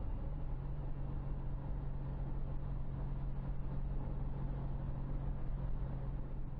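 Honda CTX 1300 motorcycle engine running at a steady cruise, a constant low hum under wind and road noise.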